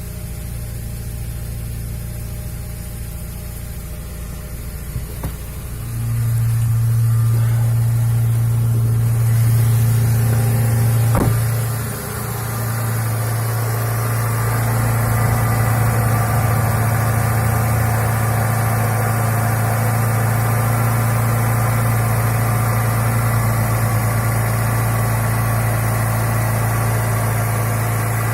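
Ford Laser engine idling steadily at a flat pitch after a cold start. It gets louder about six seconds in, and there is a single sharp click with a brief dip in the engine sound a little past the middle.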